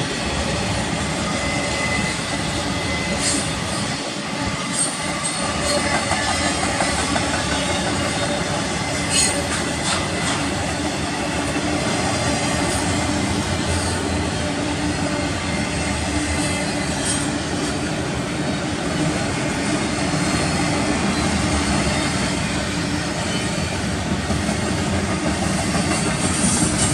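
Union Pacific intermodal freight train passing at speed: a steady rumble and rattle of its cars' wheels on the rails, with occasional sharp clicks.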